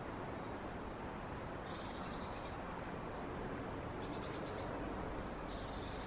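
Birds calling in the trees: three short high chirps about two seconds apart, the middle one a quick trill, over a steady rushing background.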